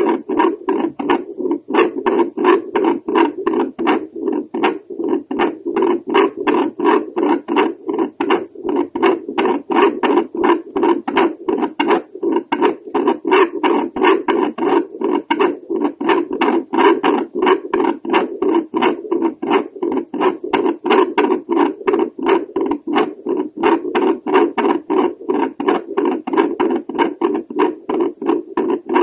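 Heartbeat picked up by a handheld home Doppler over the aortic valve: a steady run of whooshing, thudding pulses, several a second, through the Doppler's speaker.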